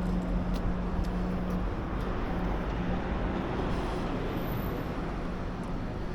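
Road traffic: a steady rumble of passing vehicles, with a nearby engine's low hum that fades out about a second and a half in.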